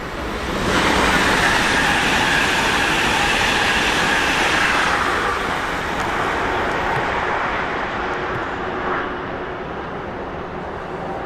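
Train running through the station: a loud rushing wheel-and-rail noise swells up within the first second, holds for about four seconds, then dies down to a steady lower rumble.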